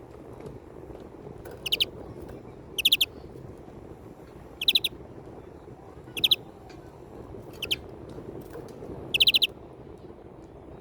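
European greenfinch giving six short, rapid trilled calls, spaced one to two seconds apart, over a steady low background noise.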